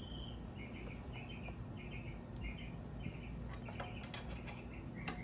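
A bird chirping in short repeated calls, with a few light clicks about four and five seconds in.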